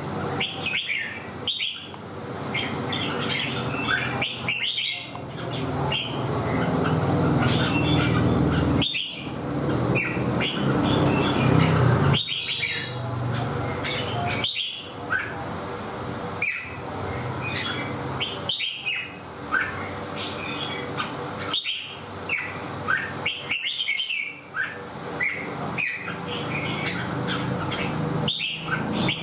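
Red-whiskered bulbul singing, with many short chirpy phrases in quick succession over a steady low background rumble.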